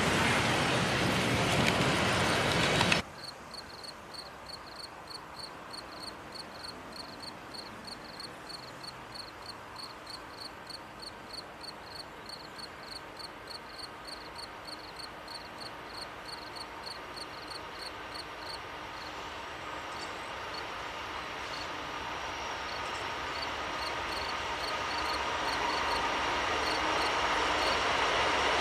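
Double-stack intermodal freight cars rolling past on the rails, cut off suddenly about three seconds in. Then insects chirping in a steady rhythm, while the rumble of an approaching freight led by a GE AC44C6M and an EMD SD70ACe diesel locomotive grows steadily louder toward the end.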